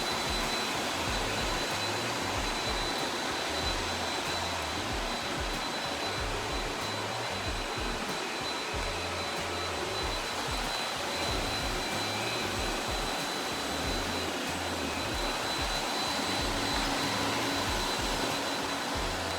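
Robot vacuum running steadily, with a constant high-pitched whine over its motor and brush noise.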